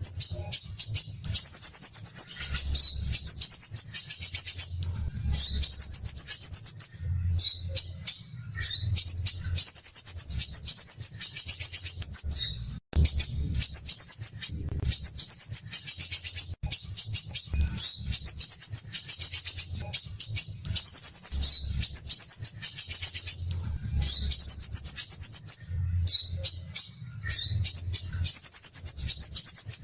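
Crimson sunbird (sepah raja) singing one rapid, dense, rough high-pitched trilling phrase after another, with only brief pauses between them, over a faint low hum.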